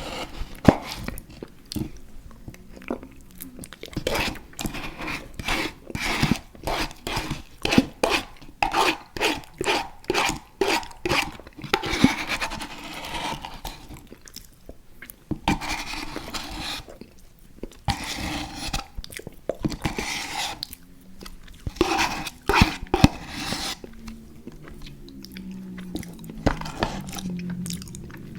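Close-miked chewing of soft, chewy fruit candies (Airheads Bites and Tootsie Fruit Chews): wet smacking and sticky mouth clicks in quick runs of several a second, with short pauses between.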